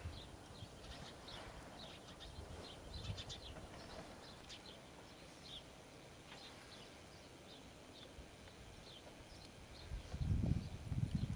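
Faint chirping of small birds: many short, high chirps scattered throughout. Near the end there are a few louder, low muffled bumps.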